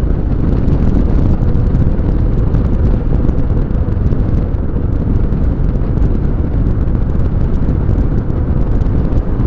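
Motorcycle under way at road speed: a steady rush of wind and road noise, with the engine's note running evenly underneath.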